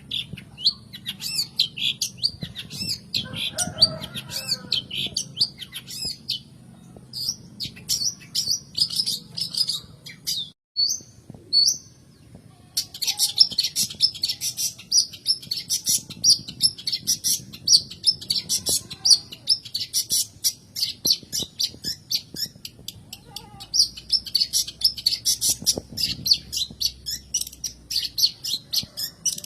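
Long-tailed shrike (cendet) giving a fast, chattering song of short, sharp, high notes, several a second. The song breaks off briefly about ten seconds in, then resumes denser. A faint low hum sits underneath.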